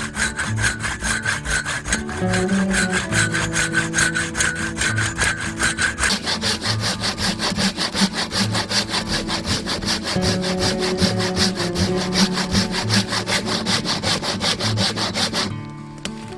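Hand saw cutting through firewood in fast, even back-and-forth strokes.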